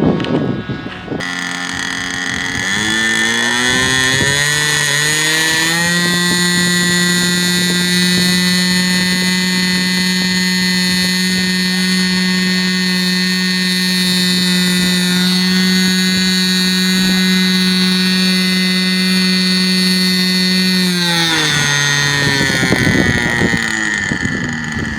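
Small model airplane engine run up to full throttle on the ground: its high, buzzing note climbs over the first few seconds, holds steady for about fifteen seconds, then falls away as it is throttled back near the end.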